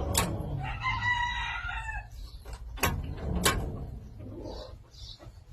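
A rooster crows once, a single held call of just over a second that drops off at the end. Three sharp knocks fall around it: one just before the crow and two more about half a second apart after it.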